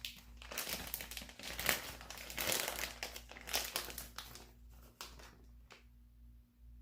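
Plastic bag of shredded cheese crinkling in irregular bursts as cheese is taken out and sprinkled, dying down about four and a half seconds in.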